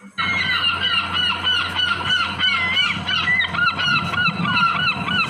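Kingfisher calls: a dense run of short, shrill, arched notes, many overlapping and repeated several times a second.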